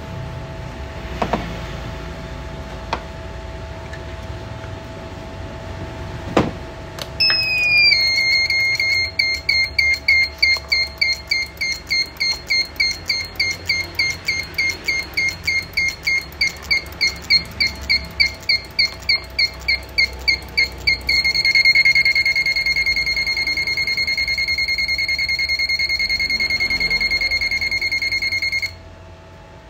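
A high-pitched electronic buzzer starts about seven seconds in after a click. It beeps rapidly, about three times a second, then switches to a continuous tone and cuts off near the end. A steady low hum runs underneath.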